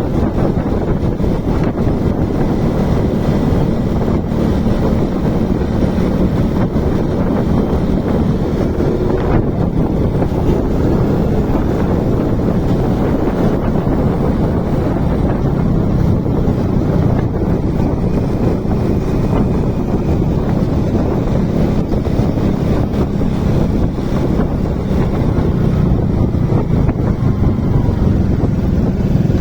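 Motorcycle engine running steadily under way, mixed with heavy wind noise buffeting the microphone.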